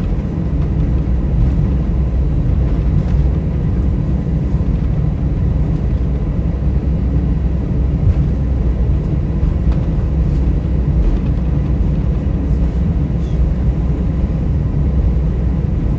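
Airbus A320 cabin noise on the ground before takeoff: a steady, loud low rumble of the engines at idle and the cabin air, with faint steady whine tones.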